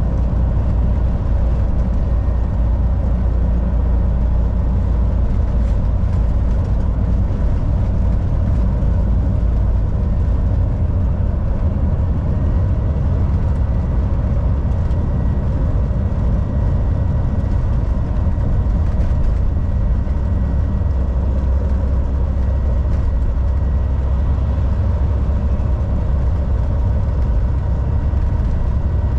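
Volvo VNL 760 semi-truck cruising at highway speed: a steady low engine drone with road noise and a faint steady whine above it.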